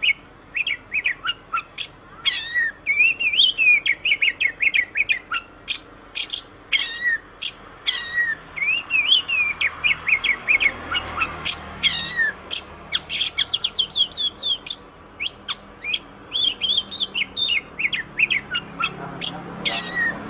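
Oriental magpie-robin (kacer) singing a fast, varied song of sharp whistled notes and quick up-and-down pitch sweeps, delivered in rapid runs with barely a pause.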